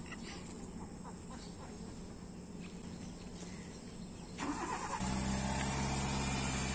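Small Maruti hatchback's engine being started: a brief cranking about four seconds in, then the engine catches and idles steadily.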